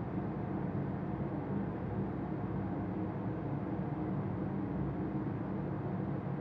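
A steady low rumble with no distinct sounds standing out of it.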